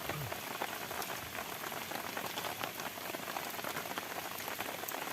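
Steady rain falling: an even hiss dotted with the ticks of single drops.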